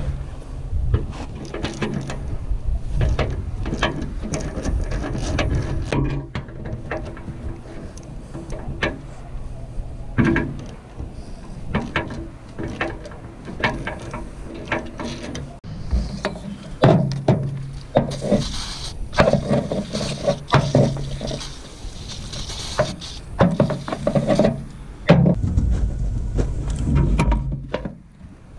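Hand ratchet wrench clicking in repeated strokes, with metal knocks and clanks, as fasteners are worked loose to remove a truck's fuel pump.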